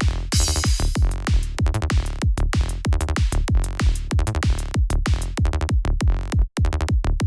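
Electronic kick drum and synth bass loop playing back: a deep kick made in Kick 2 under a Sylenth bass, with a short burst of high noise just after the start. It drops out for an instant shortly before the end, then cuts off abruptly.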